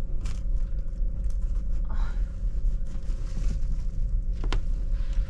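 Steady low rumble and hum inside a passenger train carriage, with a thin steady tone, and a couple of brief clicks.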